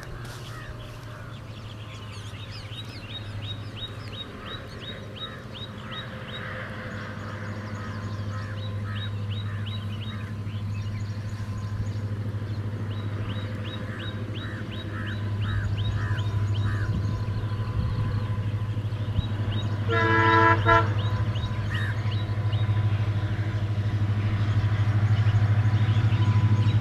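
An approaching train: a steady low locomotive drone that grows louder, with two short horn blasts about twenty seconds in. Birds chirp repeatedly over it.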